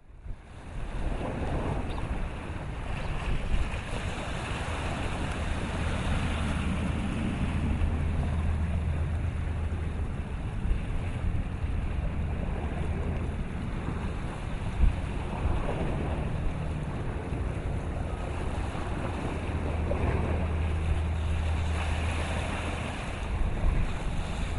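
Wind buffeting the microphone over choppy open water, with waves washing. The low wind rumble gusts up twice.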